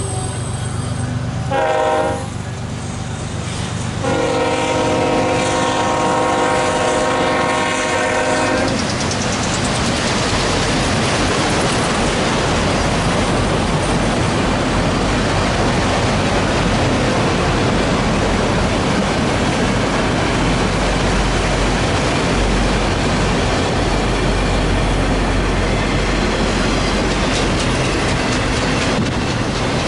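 Diesel locomotive air horn sounding a short blast and then a long one, the last of a grade-crossing signal. The train then rolls by with a loud, steady rush of wheels on rail as the Union Pacific locomotive and its empty autorack cars pass.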